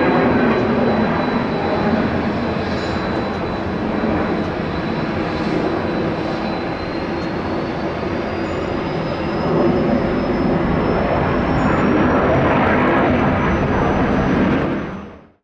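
Jet airliner's engines running loud and steady, a dense roar with a thin whine that rises in pitch through the second half. The sound fades out abruptly at the end.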